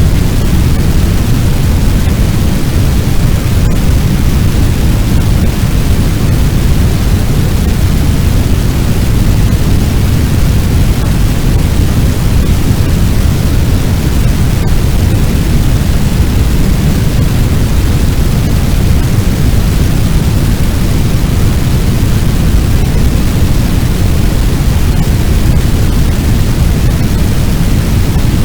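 Fire sound effect: the steady, loud, deep rumbling roar of a large blaze, even throughout, with a couple of faint ticks.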